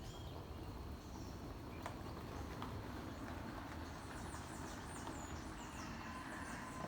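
Birds calling at dawn in Atlantic forest: scattered high chirps, then a quick run of high, downward-sliding notes about four seconds in, over a steady low background rumble.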